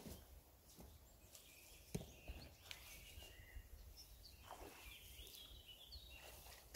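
Near silence, with faint bird chirps in the distance and a couple of soft knocks.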